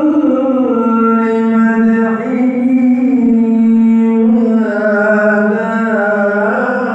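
A solo male voice chanting an Islamic ibtihal, holding one long melismatic note on a vowel with slow ornamental turns and small pitch steps.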